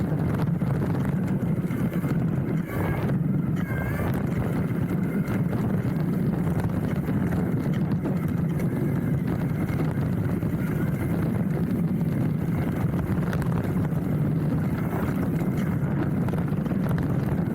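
Hardtail mountain bike riding down a trail, picked up by a handlebar-mounted camera: a steady rumble of tyres on the dirt and gravel with a constant rattle and clatter of chain and frame over the bumps.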